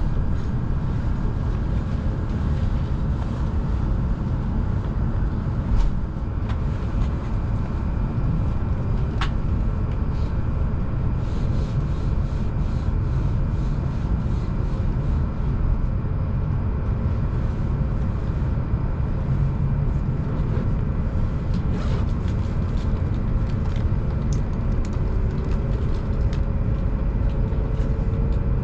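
Shinkansen bullet train running at speed: a steady low rumble with faint ticks, and a faint whine that rises slowly in pitch near the end.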